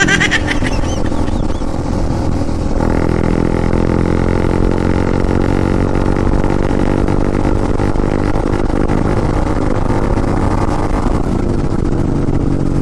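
Kawasaki Dominar 400's single-cylinder engine running at expressway speed, its note climbing slowly as the bike gains speed, over steady wind rush on a helmet-mounted microphone.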